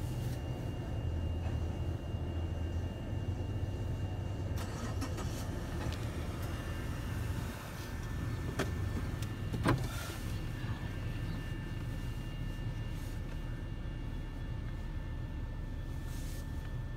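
Long freight train's cars rolling past a level crossing, heard from inside a car: a steady low rumble with scattered wheel clicks, and one sharp knock about ten seconds in.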